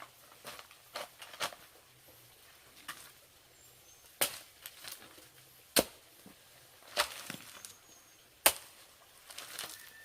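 Sharp chopping strikes of a hand tool, one every second or so at uneven intervals, with a quicker run of three near the start.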